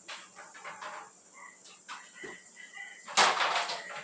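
Removable plastic refrigerator parts being handled and wiped dry with a cloth: light knocks and clicks, then a louder rubbing rasp about three seconds in.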